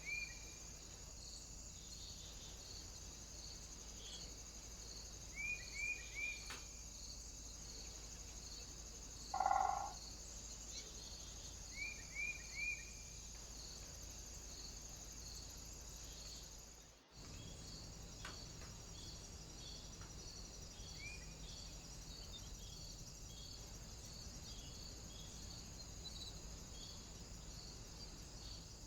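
Small birds at a feeder giving short runs of three quick chirps a few times, with one brief, louder, lower sound about ten seconds in. Underneath runs a steady high hiss with a faint regular pulsing about twice a second.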